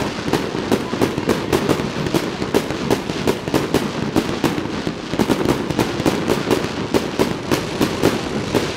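Fireworks display: a continuous barrage of aerial shell bursts, several sharp bangs a second without a break.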